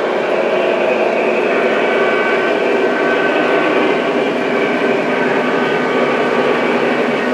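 O gauge three-rail model freight train running along the track: a steady rolling rumble of wheels and motor with a faint whine on top.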